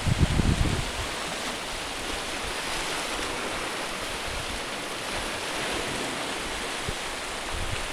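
Small sea waves washing steadily onto a shingle and sand shoreline, with a few gusts of wind rumbling on the microphone in the first second and again briefly near the end.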